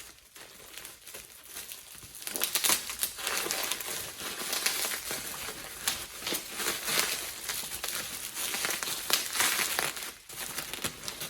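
Packaging being handled and pulled off, crinkling and rustling with many quick crackles. It starts about two seconds in and stops shortly before the end.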